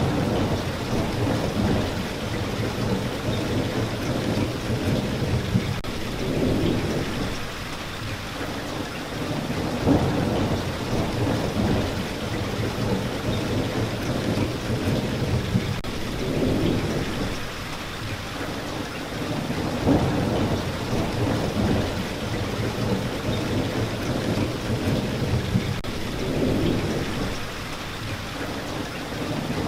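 Steady rain falling, with low rumbling thunder that swells and fades again and again beneath it.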